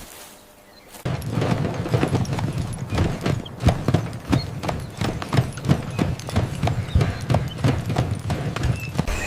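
Hooves clopping in quick, irregular beats, starting about a second in, over a steady low rumble.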